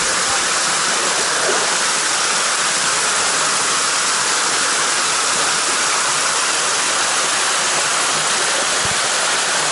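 Steady, loud rush of fast-moving water.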